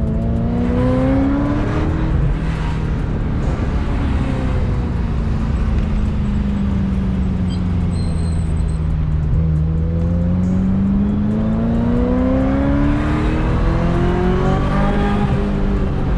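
Ferrari F355's 3.5-litre V8 through a Tubi exhaust, under way: revs climb briefly, then fall slowly for several seconds, then build in a long steady pull until a gearshift drops them near the end.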